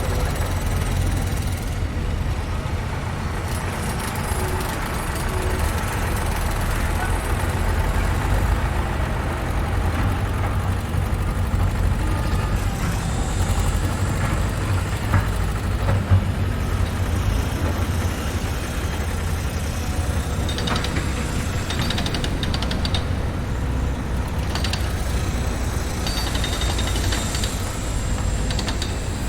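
Construction-site ambience: a heavy engine running with a steady low rumble, with a couple of sharp knocks about halfway through and bursts of metallic rattling in the second half.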